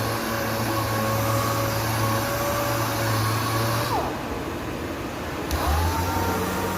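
Power sander running steadily on an epoxy-primed car body panel, with a steady whine over the sanding noise. About four seconds in it winds down, then spins back up a second and a half later.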